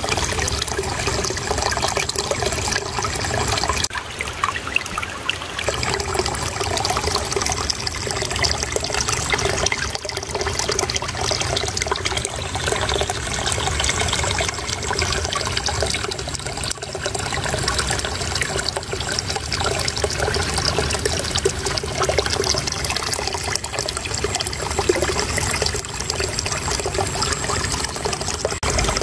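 Flowing water babbling steadily, a continuous gurgling trickle with many small splashes.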